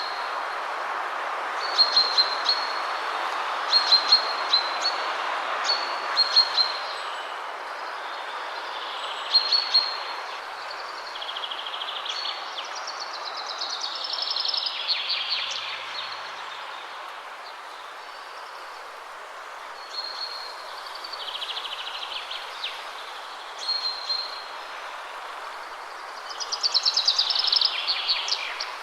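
Steady rushing of wind through trees, with songbirds singing over it: short high chirps repeated every couple of seconds, and twice a longer rapid trill that falls in pitch.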